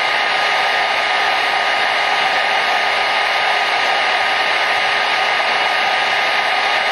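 Hair dryer running steadily: a constant rush of blown air with a faint steady whine from the motor.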